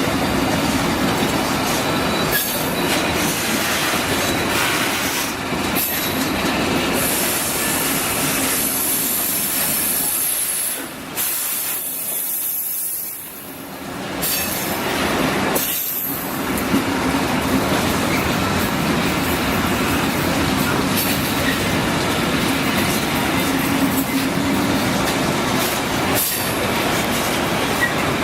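Train running on the rails with high wheel squeal at times, loud throughout, with one short lull about halfway through.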